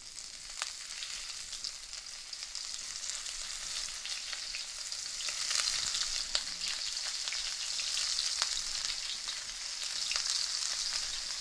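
Cornstarch-coated prawns sizzling as they shallow-fry in a few tablespoons of smoking-hot vegetable oil, with scattered sharp pops of spitting oil. The sizzle grows louder about halfway through as more prawns are laid into the pan.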